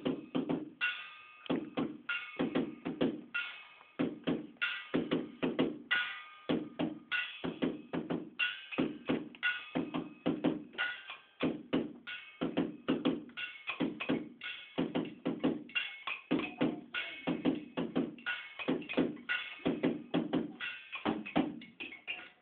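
A group of children playing a rhythmic piece on found objects used as percussion: a fast, even run of strikes, some of them ringing, that stops suddenly near the end.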